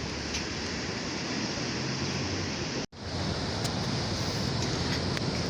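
Ocean surf washing steadily, with wind on the microphone. The sound cuts out for an instant about three seconds in.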